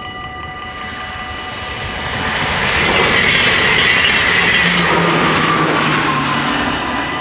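An NS ICMm (Koploper) electric train passing through a level crossing at speed: a rushing rail noise that swells, is loudest about three to four seconds in, then fades. The crossing's warning bells ring steadily beneath it, drowned out as the train goes by and heard again near the end.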